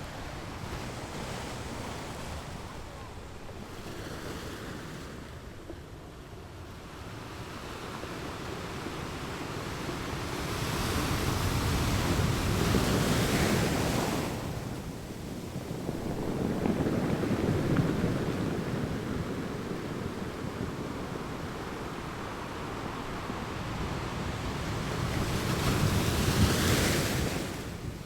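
Strong sea waves breaking on a beach: a steady rushing surf that swells and falls back, with big breakers building and crashing about halfway through, again a few seconds later, and once more near the end.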